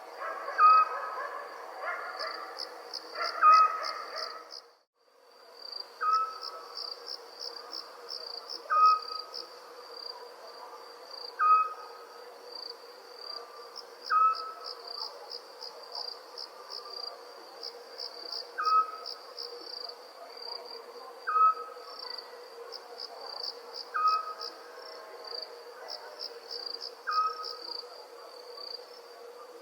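Crickets chirping in quick pulsed trains over a steady insect drone, with a short call repeated about every two and a half seconds. The whole sound cuts out briefly about five seconds in.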